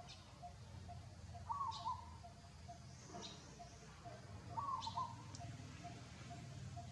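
Birds calling: a short two-part call repeats about every three seconds over a steady run of quick, faint pips, with brief high chirps in between.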